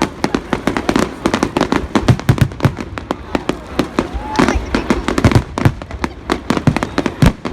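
Firecrackers going off in a rapid, irregular crackle of sharp bangs, several a second, with a few deeper, heavier bangs among them.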